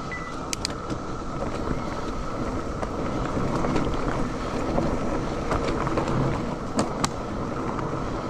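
Mountain bike rolling over a dirt trail, with rumbling tyre and wind noise and a few sharp rattling clicks. Under it runs a loud, steady chorus of cicadas.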